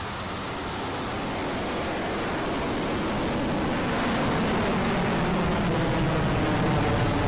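Rocket Lab Electron's first stage, with its nine Rutherford engines firing at liftoff, makes a steady rushing rumble that grows gradually louder.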